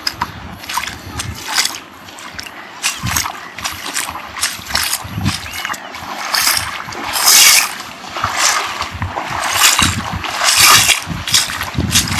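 Seawater splashing and sloshing in a rapid, irregular run of bursts, loudest about two thirds of the way through.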